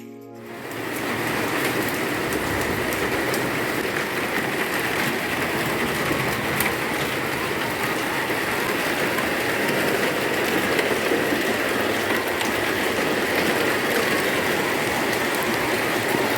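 Heavy rain falling, a steady loud hiss that starts about half a second in.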